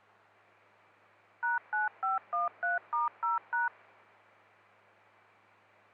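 A string of eight DTMF touch-tone digits sent over a two-way radio channel: short two-note beeps, about three a second, each digit a different pair of pitches, over a faint steady radio hiss and hum.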